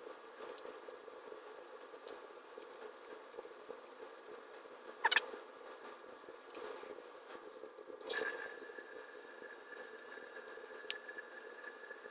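Close-up eating sounds: wet chewing and small mouth smacks on sauce-coated black-bean noodles, with a short, louder wet sound about five seconds in and a smaller one around eight seconds.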